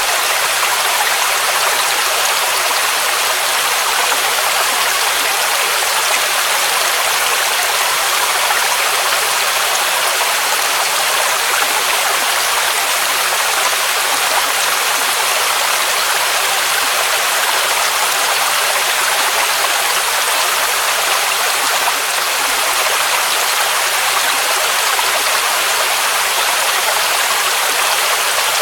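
Waterfall rushing steadily, an even hiss of falling water with little deep rumble.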